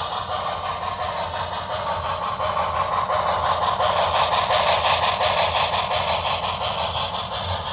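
HO-scale model steam locomotive running on track, its onboard sound decoder playing steady steam chuffing and running sounds through a small speaker, with a faint, even repeating beat.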